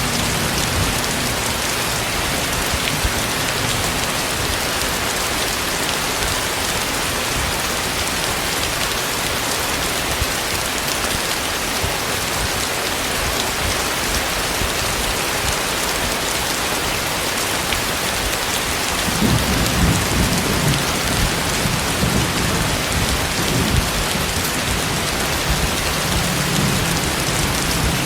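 Heavy tropical rain pouring steadily. About two-thirds of the way in, a low rumble of thunder joins it and carries on to the end.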